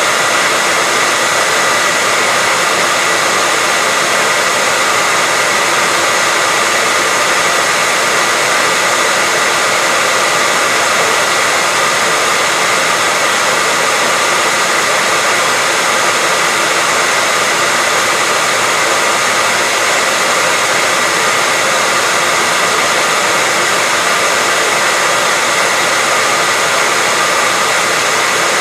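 Hair dryer running steadily: a continuous airy rush with a faint steady whine in it, unchanging throughout.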